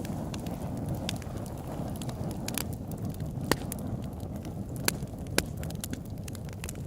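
Campfire crackling: irregular sharp pops and snaps of burning wood over a steady low rumble, with a few louder pops in the second half.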